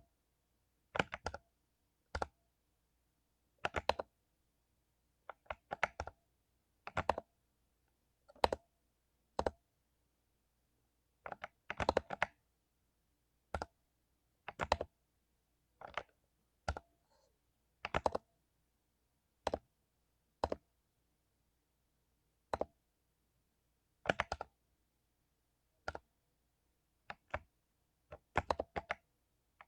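Mechanical keyboard with lubed Cherry MX Silver linear switches being typed on slowly and unevenly. The keystrokes come singly or in quick runs of two to four, with pauses of a second or two between them.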